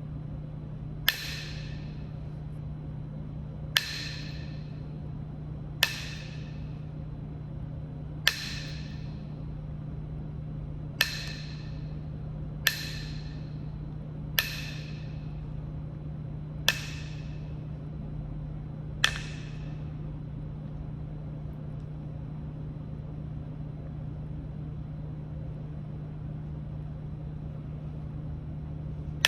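Kentucky hornstone being knapped: nine sharp, ringing clinks of strikes on the stone, one every two to three seconds, stopping about two-thirds of the way through. A steady low hum runs underneath.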